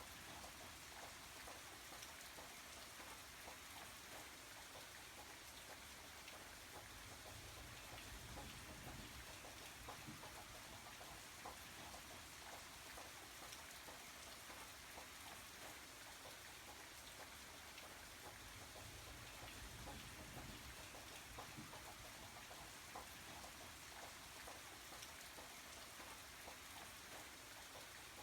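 Faint, steady rain: an even hiss with scattered light drop ticks throughout.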